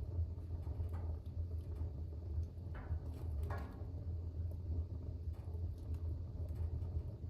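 Wood fire burning in a fireplace: a steady low rumble with scattered crackles and pops, the sharpest a couple around three seconds in.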